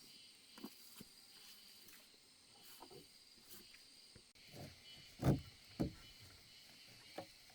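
Steady high-pitched chirring of insects, with scattered short knocks and two louder thumps a little past the middle.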